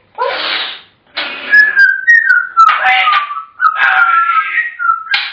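African grey parrot vocalising: a short raspy squawk, then from about a second in a string of whistled notes that wander up and down in pitch, mixed with raspy chatter.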